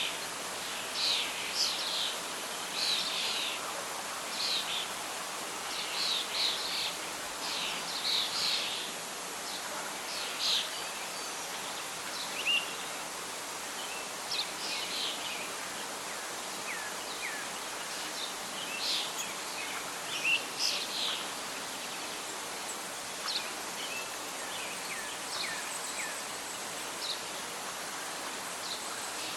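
Birds chirping and calling over a steady bed of wind and rustling leaves, with frequent short calls in the first half and sparser ones later.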